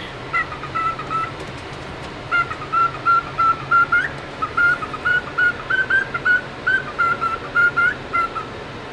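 Cockatiel chirping: a quick run of short, clear whistled notes, about three a second, with a short break about one and a half seconds in.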